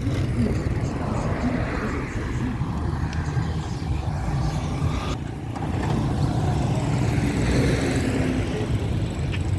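A vehicle travelling along a road: a steady low engine and road rumble.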